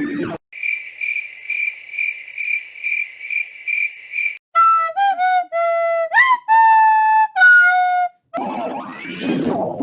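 Whistle-like electronic tones from a meme sound track. A high steady tone pulses about three times a second for some four seconds, then a short run of clean notes follows at several pitches, one sliding quickly upward. Near the end a busier jumble of sliding pitches comes in.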